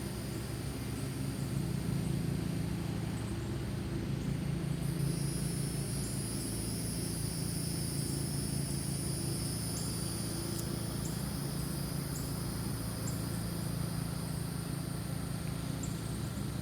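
Steady low motor hum, like an engine running nearby, with a high steady insect drone coming in about five seconds in and a scatter of short high chirps over it.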